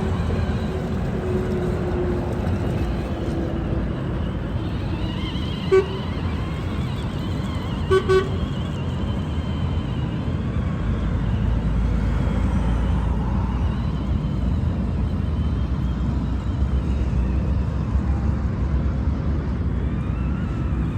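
Steady low outdoor rumble with a faint whine that rises and falls, broken by three short horn toots: one about six seconds in and two close together about eight seconds in.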